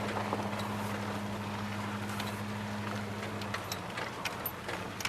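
A 1992 Dodge Dakota pickup running on wood gas, heard while driving along a back road. Its engine gives a steady low drone, with scattered knocks and rattles; the engine note eases slightly about three and a half seconds in.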